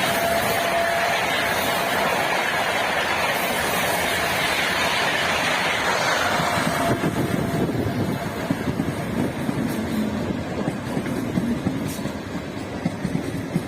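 High-speed Gatimaan Express, led by a WAP-5 electric locomotive, passing at about 160 km/h. There is a loud rushing for the first six seconds or so, with the tail of its horn note still sounding at the start. Then the coaches clatter rhythmically over the rail joints, a little quieter.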